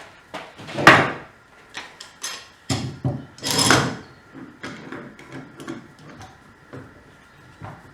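Pieces of wood being handled: a series of knocks and clacks with two louder, longer scrapes, one about a second in and one around three and a half seconds.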